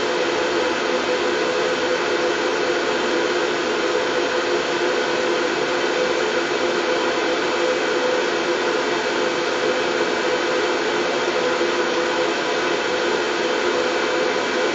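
Steady, unchanging white noise, a constant hiss with a faint hum running through it.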